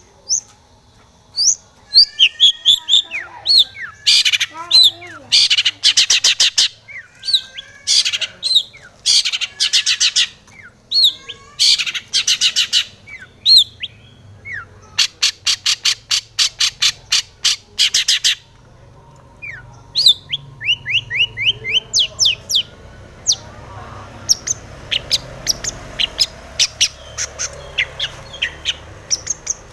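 Long-tailed shrike singing: loud bursts of fast rattling trills, each about a second long, mixed with short chirps and quick falling whistled notes.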